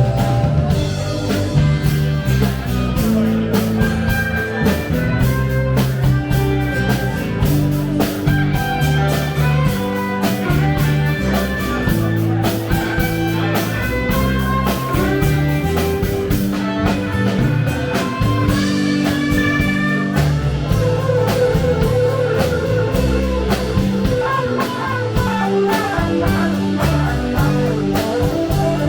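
Live rock band playing an instrumental passage without vocals: guitar over bass and drum kit.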